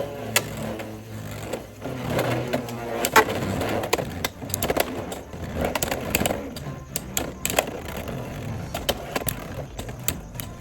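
Beyblade X spinning tops whirring and scraping around a plastic stadium, with frequent sharp clacks as they collide.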